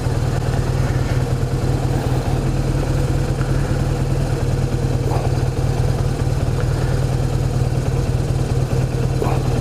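BMW R1200RT's boxer-twin engine running steadily at low revs.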